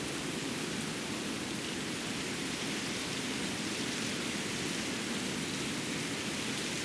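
Winter forest ambience: a steady, even rushing noise with no distinct events.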